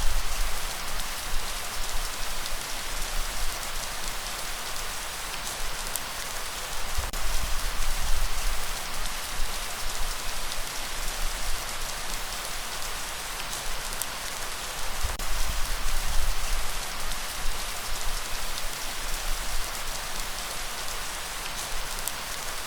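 Steady heavy rain, an even hiss, with a deep low rumble underneath that swells and fades every several seconds.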